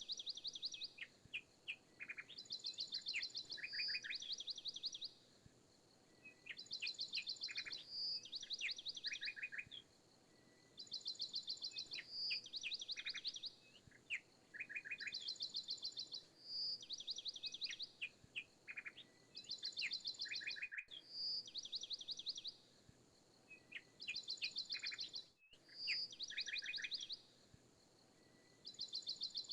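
Birdsong chirping in a looped recording: the same short phrase of rapid trilled chirps repeats about every four seconds.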